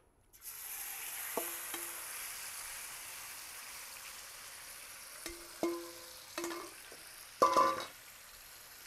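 Diced chicken thighs hitting hot vegetable oil in a wok: a loud sizzle that starts suddenly about half a second in and slowly eases as the chicken settles. Metal clinks from the spatula and bowl against the wok come through it several times, with a louder clank near the end.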